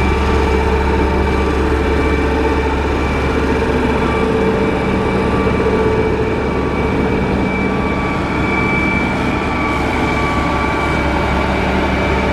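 Motor grader's diesel engine running steadily: a constant low drone with a steady whine above it.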